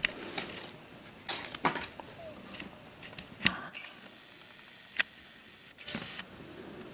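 Handling noise from a plastic puzzle and its packaging: a few sharp light clicks with soft rustling between them.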